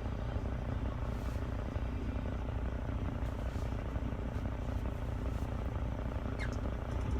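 Steady drone of a truck's engine and road noise heard inside the cab while driving.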